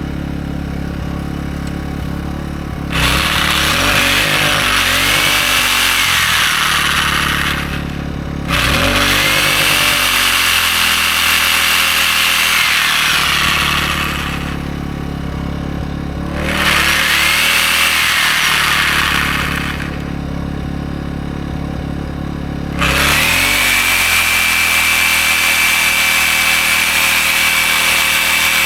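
Large DeWalt corded reciprocating saw (Sawzall) run four times in bursts of a few seconds, its motor whine rising and falling with the trigger. Underneath, an AiVolt 1600-watt inverter generator runs steadily, and its engine note shifts each time the saw draws load. The generator carries the saw without overloading.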